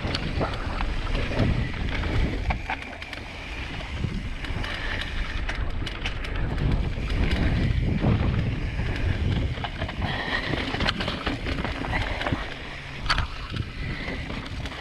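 Wind buffeting the microphone while a mountain bike rolls fast over a rough dirt trail, its tyres and frame clattering, with scattered knocks from bumps.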